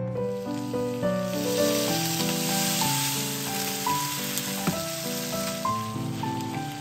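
Chicken and onions sizzling and frying in hot oil in a nonstick pan, a steady loud hiss that starts abruptly, with one sharp tap about two-thirds through. Light background music with a simple melody plays under it.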